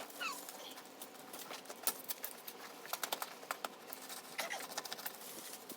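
Hand digging in stony ground: a shovel scraping and crunching into gravelly soil, with irregular clicks and knocks of stones. A few short high chirps sound near the start and again about four and a half seconds in.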